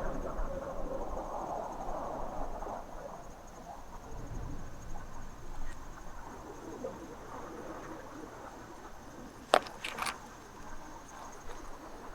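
Insects, such as crickets, trilling steadily in a high, fast-pulsing drone, over a low even background rush. Two or three sharp clicks come close together about nine and a half seconds in.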